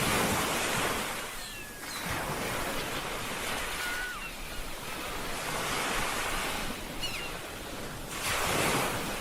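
Ocean waves breaking and washing up a shore, swelling and ebbing every two to three seconds. A few faint, short falling whistles sound over the surf.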